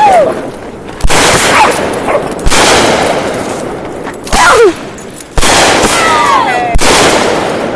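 Consumer fireworks going off: about five loud bangs, each followed by a fading crackle. It is loud enough to need a headphone warning.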